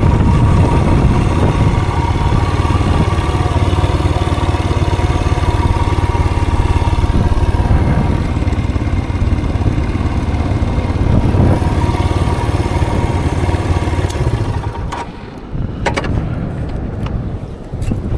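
A vehicle on the move: a loud, steady low rumble with a faint steady whine. The sound drops off about fifteen seconds in, and a few sharp clicks follow.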